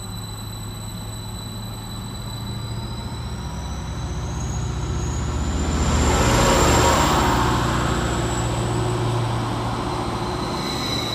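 Transport for Wales Class 231 Stadler FLIRT diesel-electric multiple unit pulling away from the platform. Its diesel engines run with a steady low hum while a whine from the electric traction rises in pitch as it gathers speed. It is loudest about six to seven seconds in as the carriages go by.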